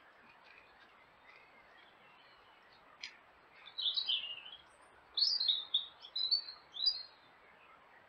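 Songbird singing in short phrases of quick falling notes: one burst about four seconds in, then several more close together over the last three seconds, with faint chirps of other birds beneath.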